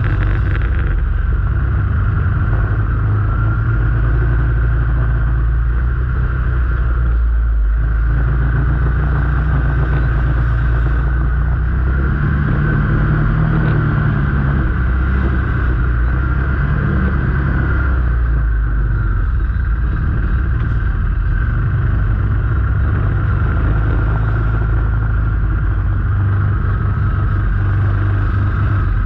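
Motor vehicle engine running steadily with a heavy low rumble, its pitch rising and falling briefly about halfway through as it speeds up and eases off.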